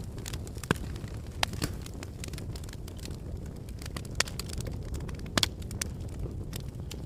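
Wood fire burning in a fireplace: a steady low rumble of flame with frequent sharp crackles and pops, the loudest snaps about 0.7 s, 1.5 s, 4.2 s and 5.4 s in.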